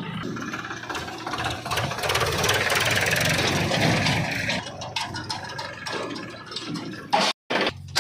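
A heavy vehicle's engine running steadily. The sound cuts out completely for a moment near the end.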